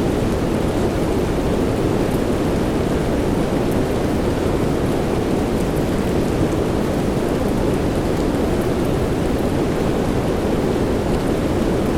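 Soft rain falling steadily, a dense, even rush of noise weighted toward the deep end, with a few faint scattered drop ticks on top.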